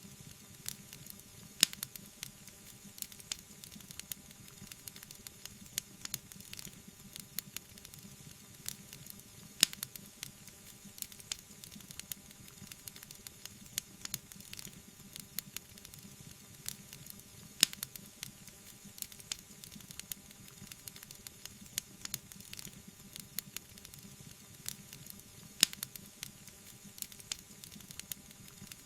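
Wood fire crackling, with a dense run of small pops and a few much louder snaps, over a low steady hiss of burning.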